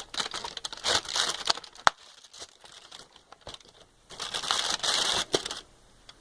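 A wrapper being crinkled close by, in bursts about a second in and again from about four to five and a half seconds in, with a sharp click just before two seconds in.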